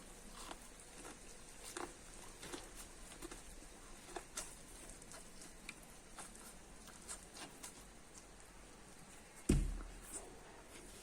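Eating corn close to the microphone: scattered small crunches and clicks of kernels being bitten and chewed. One heavy thump about nine and a half seconds in.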